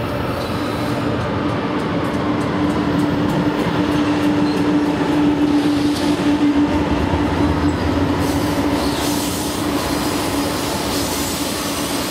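A BNSF freight train of tank cars passing close by, led by diesel locomotives whose steady drone is strongest in the first half and fades after about eight seconds, leaving the rumble of the tank cars rolling past.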